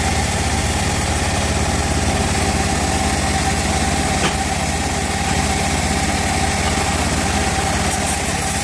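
Home-built bandsaw mill running steadily, its engine and blade giving an even hum with a steady whine and no change in load.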